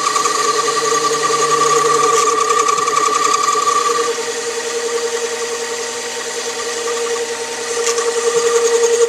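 Small metal lathe running with a steady motor whine. Its higher tone fades about four seconds in, and the sound grows louder again near the end.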